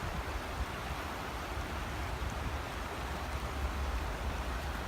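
Steady rushing murmur of a flowing river, with a low rumble underneath.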